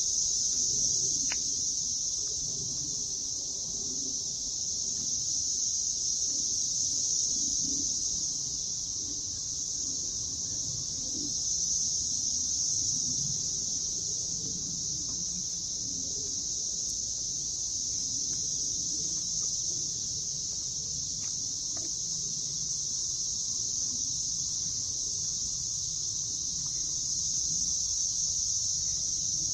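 Cicada chorus: a steady, high-pitched, unbroken drone, with an uneven low rumble underneath.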